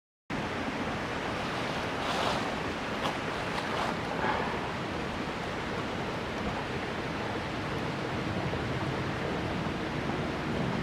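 A steady rushing noise outdoors, cutting in abruptly from silence just after the start, with a few faint rustles a couple of seconds in.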